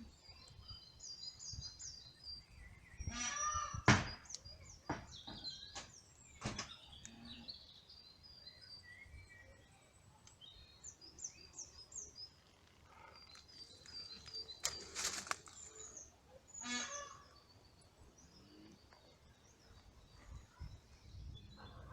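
Small woodland birds singing: many short, high chirping notes, repeated in quick phrases. A few brief sharp knocks or rustles come through, the loudest about four seconds in.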